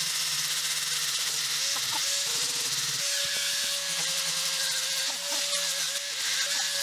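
A small electric power tool runs steadily, its motor hum holding one pitch with slight wobbles over a constant hiss.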